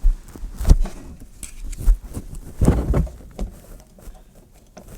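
Metallic clinks and knocks, several sharp ones with dull thumps, from hands working on a car's coilover shock and its adjuster.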